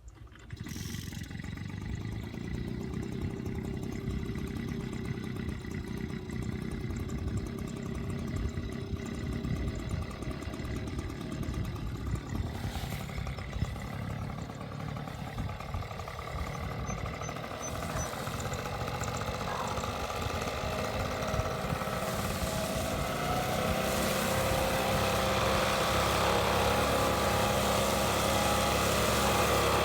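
An engine running steadily, growing louder over the last third.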